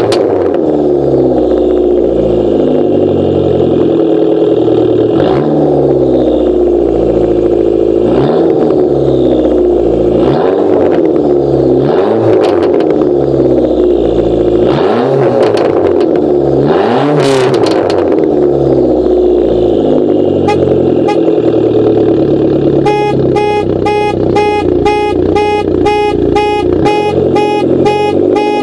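2004 Dodge Neon SRT-4's turbocharged 2.4-litre four-cylinder being free-revved again and again through its exhaust, each rev rising and falling, with sharp backfire cracks at several of the rev peaks. About three-quarters of the way in, a car alarm the revving has set off starts, pulsing about twice a second over the engine.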